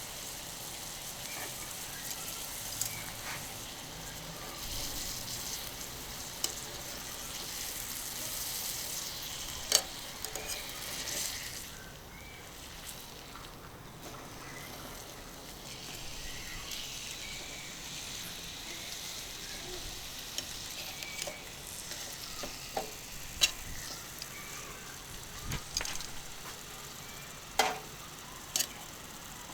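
Beef sirloin steak sizzling on a hot iron griddle plate: a steady frying hiss with scattered sharp pops and clicks. The sizzle eases for a few seconds about halfway through, then picks up again.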